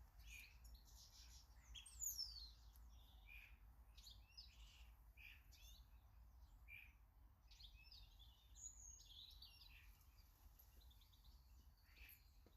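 Small garden birds chirping and calling, many short notes one after another with a quick falling whistle about two seconds in, over a faint steady low hum.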